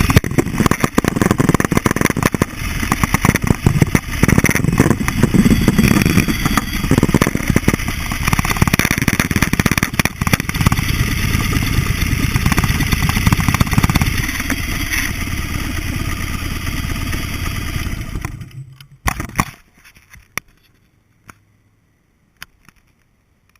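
Buell XB12SCG motorcycle's V-twin engine running and revving unevenly, then falling silent about 18 seconds in, followed by a few sharp knocks.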